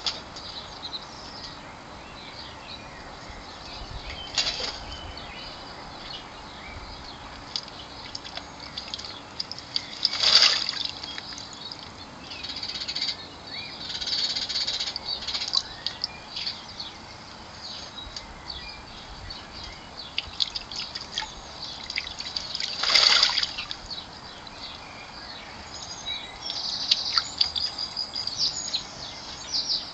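Blackbirds bathing in a garden bird bath: short bursts of splashing water and wing-fluttering, the two loudest about ten and twenty-three seconds in, with longer bouts of splashing between, and high bird chirps scattered throughout.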